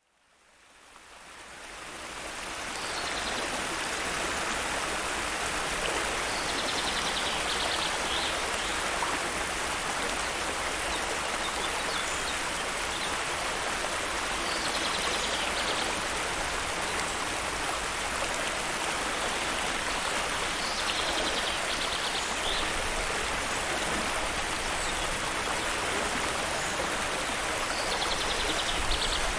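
Steady rushing of a flowing stream, fading in over the first few seconds. A bird calls a short rapid trill every six to eight seconds, five times in all.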